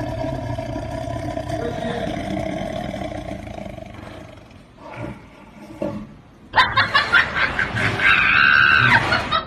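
A cat yowling: one long drawn-out call over the first few seconds, then louder, higher calls from about six and a half seconds in.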